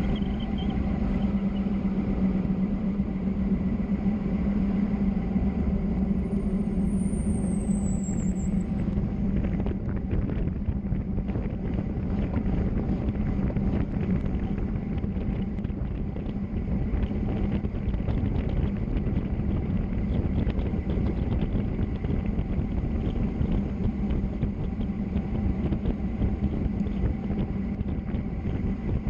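Steady rumbling road and wind noise of travel down a mountain road. About seven seconds in there is a brief high whistle that falls in pitch.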